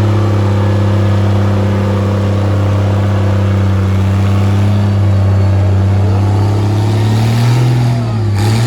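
Antique tractor engine running hard and steady under load, as in a pull against a weight sled; near the end its pitch wavers and drops as it comes off the throttle.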